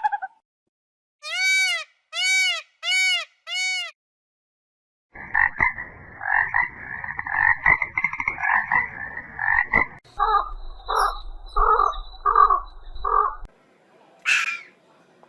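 A run of animal calls in separate bursts: four short arched calls, then a dense stretch of rapid, overlapping calls, then five evenly spaced pulsed calls, with a short call near the end.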